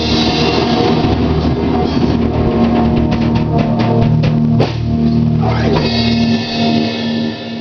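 Stoner rock music: a band with drum kit and guitar playing, with a run of drum hits in the middle; the bass end drops out and the music gets quieter near the end.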